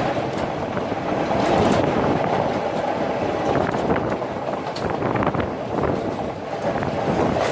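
Udaya Devi express train running along the line: a steady rumble of wheels on rail with scattered clicks from the track.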